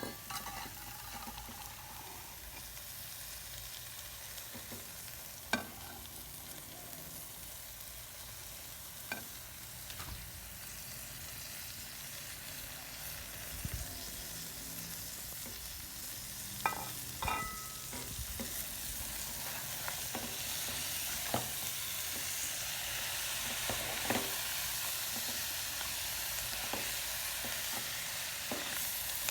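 Shredded chicken frying in a pan with browned onions and spices, sizzling steadily, with occasional clicks and scrapes of a spoon stirring against the pan. The sizzle grows slightly louder toward the end.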